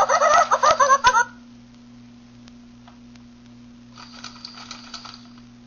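Pet parrot chattering briefly, a quick run of warbling, wavering calls without clear words, with a fainter bit of chatter about four seconds in. A steady low electrical hum sits underneath.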